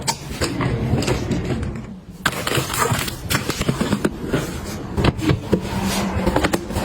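Objects being handled and set down: a quick, uneven run of small clicks and knocks, with a brief pause about two seconds in.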